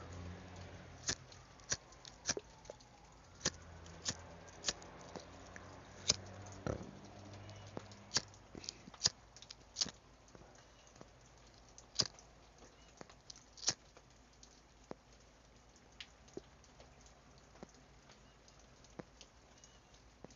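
Raindrops dripping onto a hard surface: irregular sharp ticks, roughly one or two a second, some with a short watery plink, over a faint steady hiss of rain.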